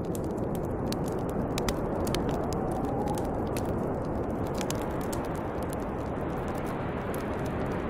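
Snowstorm wind blowing steadily, with a faint howl that rises and falls in pitch, over a wood fire crackling with frequent sharp pops.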